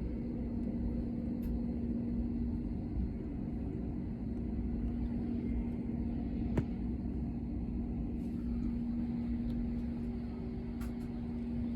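Airliner cabin noise: the engines' steady low rumble with a constant hum, and a single sharp click about six and a half seconds in.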